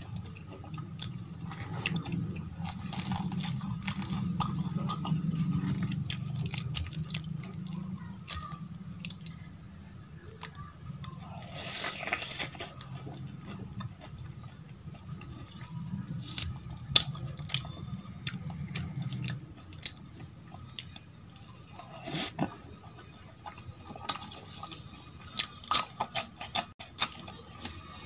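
Close-miked chewing of deep-fried aloo kachori dipped in potato curry, with wet squishing and crisp crunches. Sharp crackles come louder near the end.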